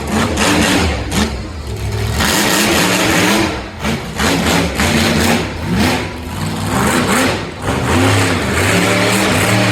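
Monster truck engine revving hard and over and over, its pitch rising and falling many times.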